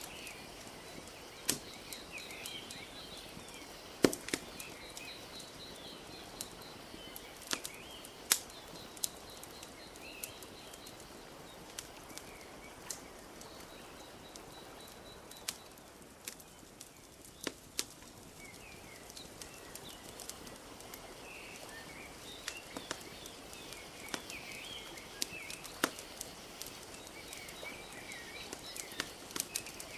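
Wood fire crackling, with irregular sharp pops and snaps, over a steady soft wash of lake water lapping at the shore. Small birds chirp in the background.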